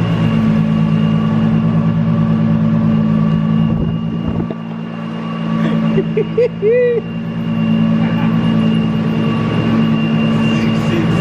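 Steady low mechanical hum of machinery in a dyno cell, holding one pitch and easing off briefly about four seconds in. A few short high squeaky calls come near the middle.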